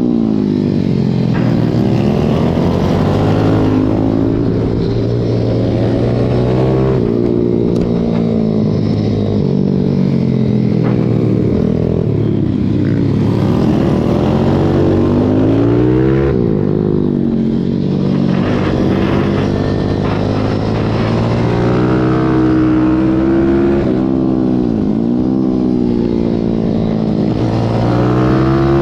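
Pit bike's single-cylinder engine at race pace, heard onboard: the pitch climbs hard through the gears, then falls away repeatedly as the rider shifts and slows for corners, with several sharp drops and re-accelerations.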